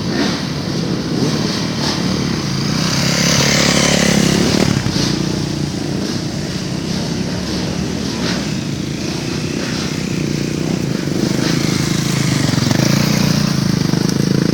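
Dirt bike engines running on a motocross track, one swelling loudest about three to five seconds in, with another rise near the end.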